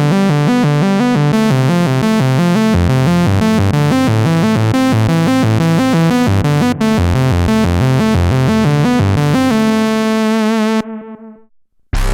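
Arturia MatrixBrute analog synthesizer playing a lead patch in a fast run of stepping notes, with a bass line coming in about three seconds in. It ends on a held chord with vibrato that fades away about a second before the end.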